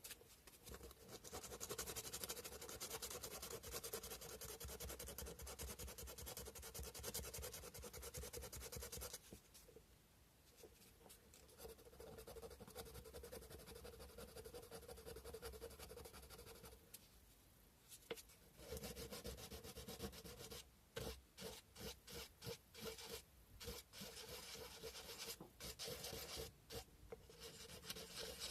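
Sandpaper rubbed by hand against a cow-bone fish hook, with quick back-and-forth scratchy strokes. The sanding comes in spells: steady at first, fainter in the middle, then choppier, broken strokes in the last third.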